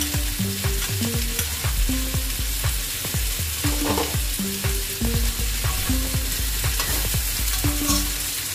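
Chicken, potatoes and carrots sizzling in a hot pan as curry sauce is poured in, then stirred and scraped with a spatula near the end. A light background music melody with a steady low beat runs underneath and cuts off at the very end.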